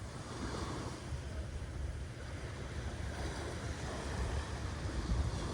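Ocean waves breaking and washing steadily, with a low rumble of wind on the microphone.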